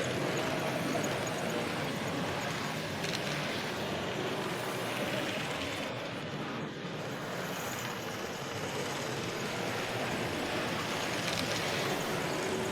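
Steady background noise of a busy exhibition hall, with model trains running on a layout.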